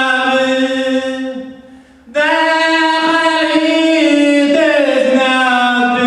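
A singer holding long, drawn-out notes of a Romani-language song. The voice fades out about one and a half seconds in, comes back about two seconds in, and near the end slides down to a lower note.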